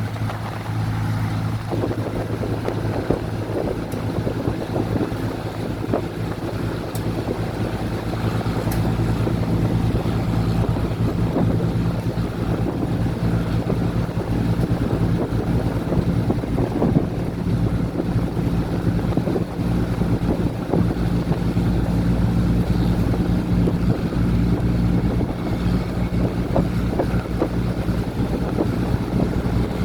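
Diesel train running: a steady low engine drone with rumble and scattered light clicks and knocks. It grows a little louder after about eight seconds.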